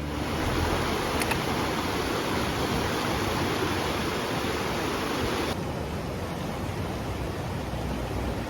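Steady rush of falling water from a waterfall, an even hiss and roar with no pauses; the hiss loses some of its top end about five and a half seconds in.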